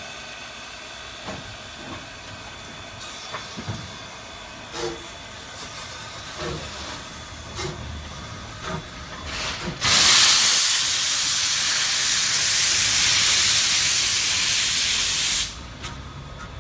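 Steam locomotive venting steam: a loud, even hiss starts about ten seconds in, lasts about six seconds and cuts off sharply. Before it, scattered faint clanks and knocks.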